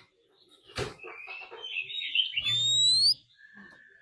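Oriental magpie-robin singing: varied chattering notes, then a clear rising whistle about two and a half seconds in, with a held note near the end. A sharp click comes about a second in.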